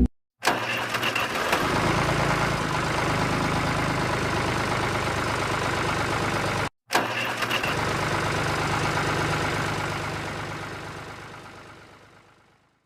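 A small engine starting with a few uneven pulses and settling into a steady run. It cuts off suddenly about two-thirds of the way through, starts again in the same way, and fades out near the end.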